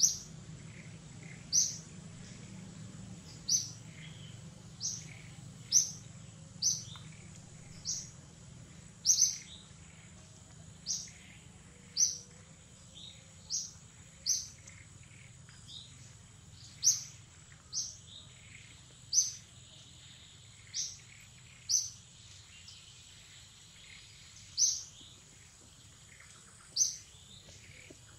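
Wild bird calling in forest: short, sharp, high chirps repeated irregularly about once a second, over a faint steady high-pitched tone.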